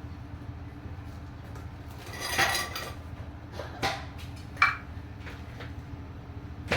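Remote-control toy construction machines working: a steady low motor hum with clattering knocks over it, a longer rattle about two seconds in and three sharp clinks after.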